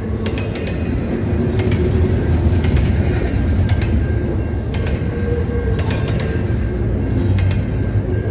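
Train rolling past, a steady low rumble with irregular clicks of the wheels over rail joints.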